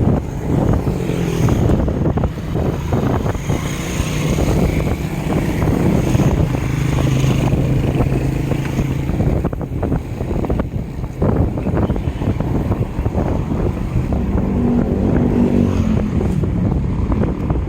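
Wind buffeting the microphone of a moving bicycle, a loud, irregular rumble. A steady low engine hum from a passing vehicle sounds for several seconds in the first half, and another pitched hum comes briefly near the end.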